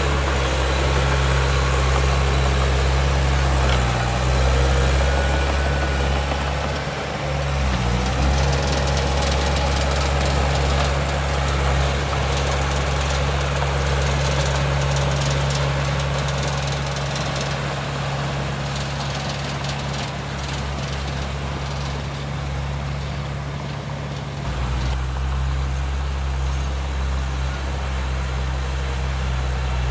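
Heavy diesel engine of earthmoving equipment running steadily, with its note changing briefly about a quarter of the way in and again near the end.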